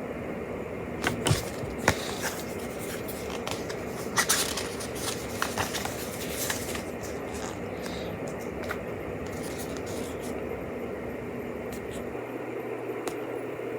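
Pages of a small paper activity booklet being handled and turned, giving scattered scrapes and rustles that are busiest in the first half, over a steady background hum.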